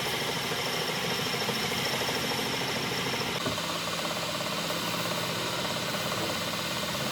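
Workshop machinery running steadily, a low hum with a fast rattle and a thin high whine that stops about three and a half seconds in.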